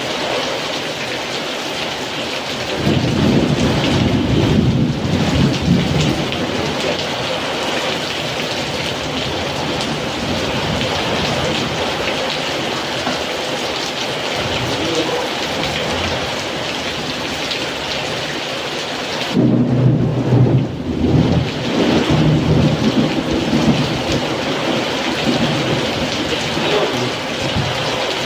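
Heavy rain pouring down steadily in strong wind. A deep rumbling swells up twice, about three seconds in and again at around twenty seconds, each lasting a few seconds.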